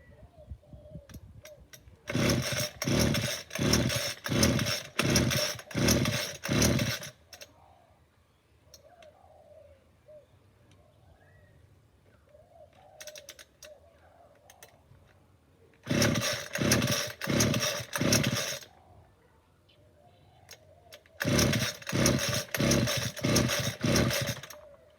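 Small two-stroke line trimmer engine being pull-started: three runs of quick recoil-cord pulls, about two a second, each pull a short whirring rasp, without the engine catching and running. It does not start, which the owner puts down to a carburettor that needs cleaning.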